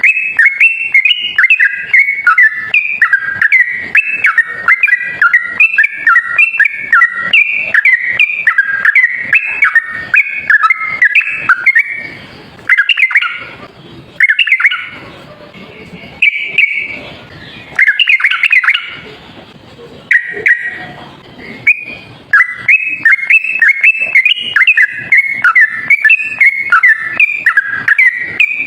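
Yellow-vented bulbul (trucuk) singing a fast, rolling run of whistled chattering notes. The run breaks into a few separate phrases midway, then the rapid run resumes near the end.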